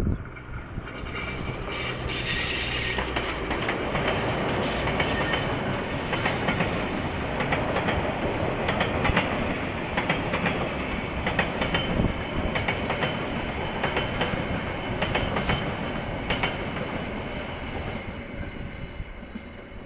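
Freight train of container wagons rolling past, heard through a security camera's microphone: wheels clacking over the rail joints, building up over the first few seconds and fading near the end as the last wagons go by.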